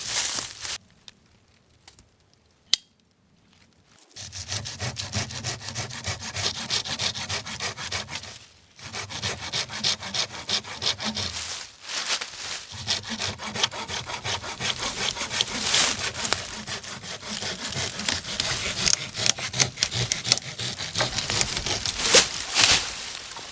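Silky Gomboy folding hand saw cutting dead wood in rapid back-and-forth strokes. The sawing starts a few seconds in and breaks off briefly twice.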